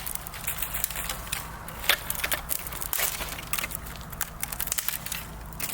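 Irregular crackling and snapping clicks, with one sharper snap about two seconds in, over a low steady hum.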